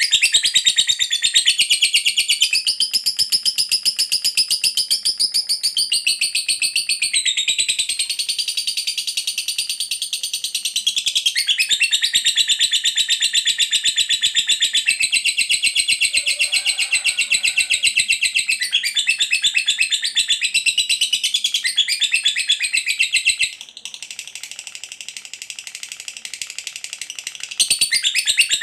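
Lovebird singing a long 'ngekek': a rapid, unbroken, high-pitched chattering trill held for many seconds at a time. It drops to a quieter stretch about 24 seconds in, then resumes loud near the end.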